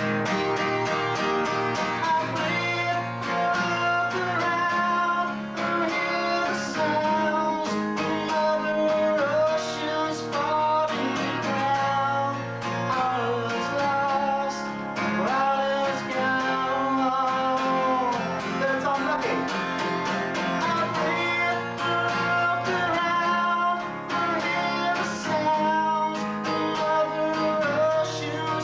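Live guitar music played through without a break, with plucked and strummed guitar notes, recorded through a basic VHS camcorder microphone.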